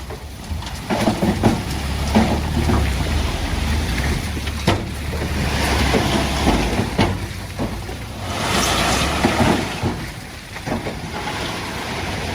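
Heavy diesel earthmoving machinery working over stone fill: the engine runs steadily under frequent clanking and clattering knocks. Twice there is a longer rushing hiss, the first about halfway through and the second near the end.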